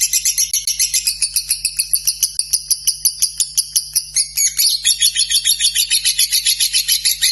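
Lovebird singing a long, unbroken chattering trill of fast repeated high notes, about ten a second, without a pause.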